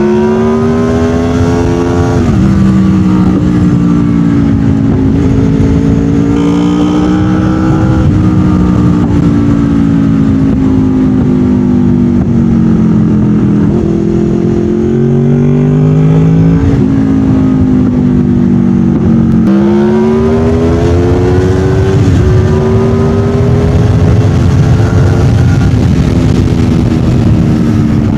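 Honda VFR800 VTEC's V4 engine running loud through Lextek headers and a Delkevic aftermarket exhaust under way. Its pitch climbs under acceleration and drops at each gear change, a few times, with cruising stretches between.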